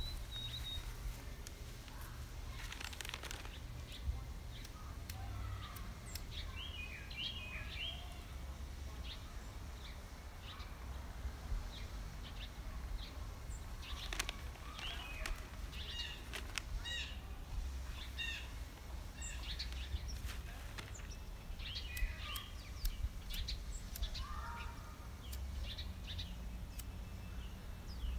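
Songbirds chirping and calling in short, scattered notes, over a steady low rumble.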